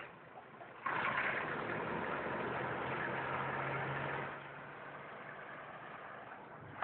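Car engine running with a steady low hum, much louder from about a second in until about four seconds, then settling back to a lower level.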